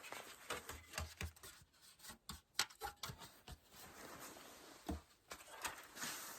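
Handling noises: a string of irregular clicks and light knocks mixed with rustling, as of objects being picked up and moved around.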